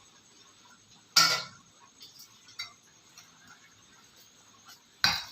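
Kitchenware clattering: two sharp knocks, about a second in and again near the end, with a few light clinks between.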